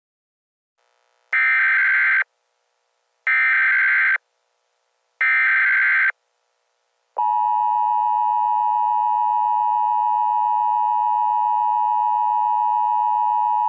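Emergency Alert System SAME header: three short, harsh digital data bursts about a second apart. About seven seconds in, the steady two-tone EAS attention signal begins, which announces an emergency alert broadcast.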